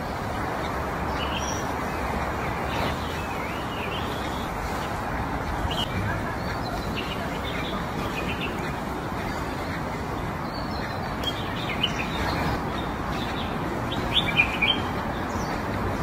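Small birds chirping in short, scattered calls over a steady background hiss, with a few sharper clicks near the end.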